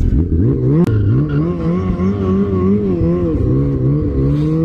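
Off-road vehicle engine revving as it pulls away, its pitch climbing steeply at the start and then rising and falling over and over with the throttle.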